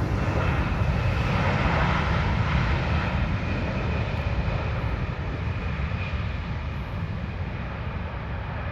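Jet airliner on its landing approach, its engines giving a steady deep rumble and roar that slowly fades.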